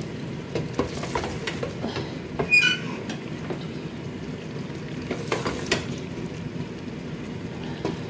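Chicken and masala sizzling as they fry (the bhuna stage) in a pressure-cooker pot, while a wooden spoon stirs and scrapes through them with scattered knocks against the pot. A brief high squeak sounds about two and a half seconds in.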